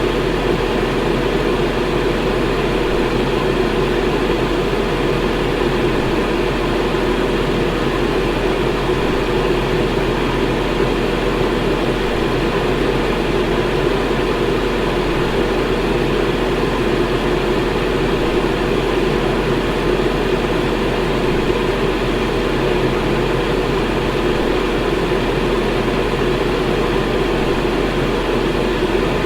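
Electric fan running at a steady speed: an even rush of air with a low hum beneath.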